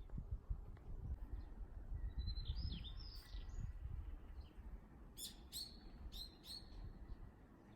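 Small birds chirping: a couple of calls a few seconds in, then a quick run of short chirps later on, over a low rumbling background noise.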